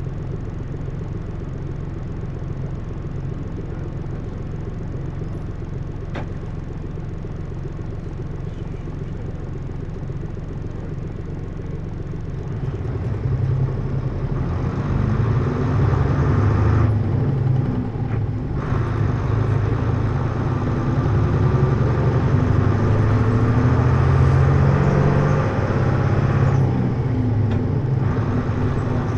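Hino U-HT2MLAA city bus's diesel engine heard on board: idling steadily, then about twelve seconds in revving up louder as the bus pulls away and accelerates, with two short lulls in the upper part of the sound. The bus is noted for a developing abnormal noise.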